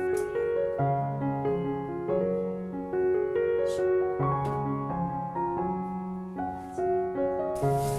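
Background piano music, a gentle melody of sustained notes over low held bass notes. Just before the end a hissing, crackling sound comes in under the music.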